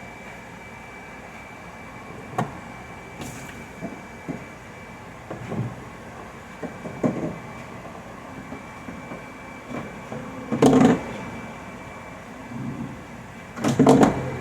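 A series of irregular knocks and clunks, the loudest two near the end, over a faint steady high whine.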